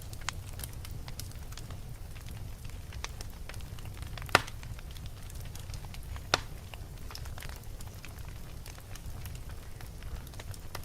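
Fire burning in a fireplace, crackling steadily over a low rumble, with two loud sharp pops about four and six seconds in.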